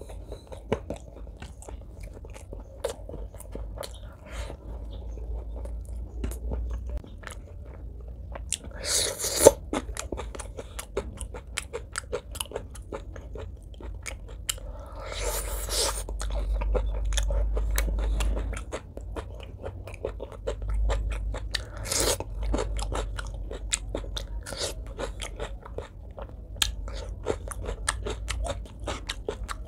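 Close-up mouth sounds of a person eating braised pork leg, rice and green chilli with his hands: wet chewing and small smacking clicks throughout. Louder bites or crunches come about nine, fifteen and twenty-two seconds in.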